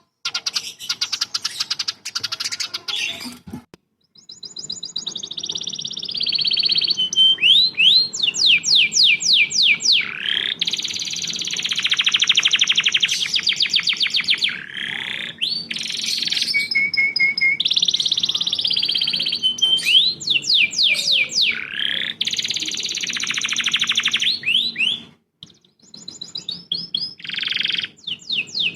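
Caged songbird singing loudly in a fast, varied stream of chirps, rapid rising sweeps and dense trills, with a brief pause about four seconds in. It is a recorded training song for other songbirds.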